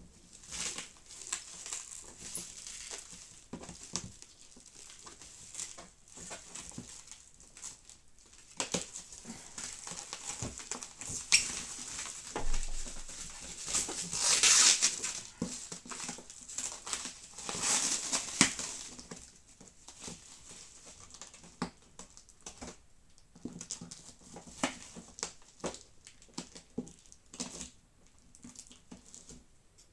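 Cardboard box and packaging being handled and opened: scattered knocks and clicks with rustling, and a few louder bursts of rustling about halfway through.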